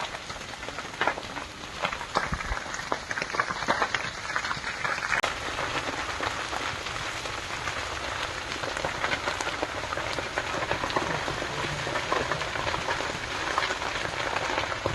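Wildfire burning through jungle vegetation: a dense, continuous crackle of many small snaps and pops.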